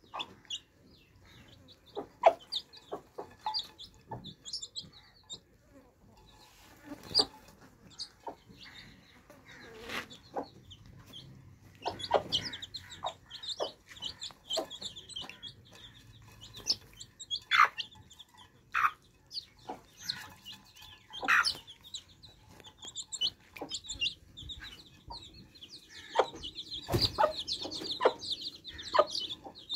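Baby chicks peeping in many short, high calls, densest near the end, with a hen clucking and scattered sharp taps.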